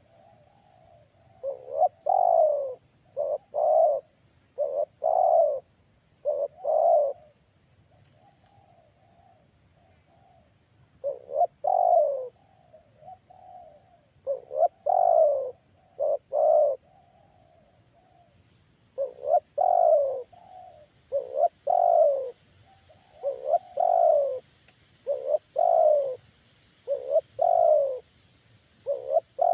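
Spotted doves (tekukur) cooing: loud phrases of several short coos in quick succession, repeated every few seconds, with fainter cooing in between.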